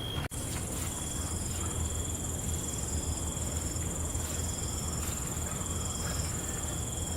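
Night crickets trilling steadily at several high pitches over a low, steady rumble; the whole sound briefly cuts out just after the start.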